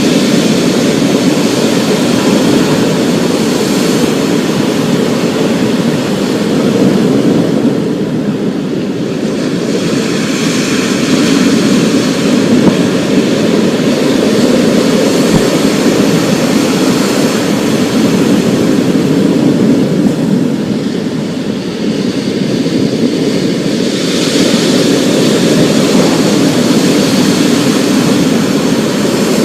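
Steady, loud storm noise of heavy rain and wind, easing slightly twice before building back up.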